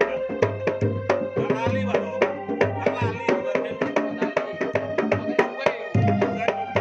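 Live Javanese percussion music over a sound system: fast, dense hand-drum strokes over repeated deep booms of the jidor bass drum, with steady pitched tones underneath and a wavering melody about two seconds in.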